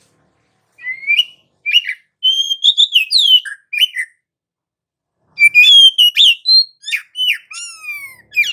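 Oriental magpie-robin (kacer) singing in two loud bursts of rapid whistled and slurred notes, the second ending in a run of falling whistles. It is the continuous, rolling song (gacor ngerol) of a bird in top form, the kind played to provoke other magpie-robins into singing.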